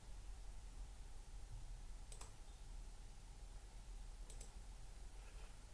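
Computer mouse clicking: a single click about two seconds in and a quick double click a little after four seconds, over a faint low hum.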